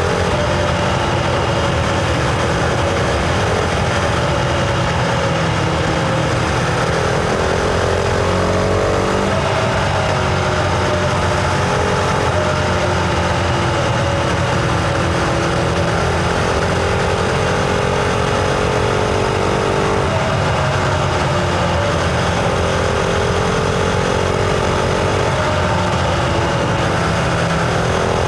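Husqvarna Vitpilen 701's single-cylinder engine running under way, heard from on board. Its pitch climbs and drops back several times, with clear falls about a third of the way in, around two-thirds through and again near the end.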